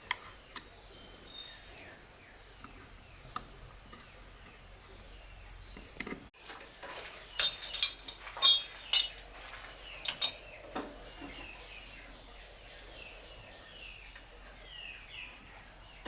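A quick run of sharp clicks and clinks, loudest about seven to nine seconds in, with scattered lighter knocks and faint bird chirps throughout.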